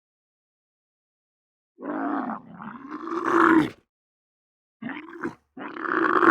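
A large animal calling three times: one long, pitched call about two seconds in, then two shorter calls near the end.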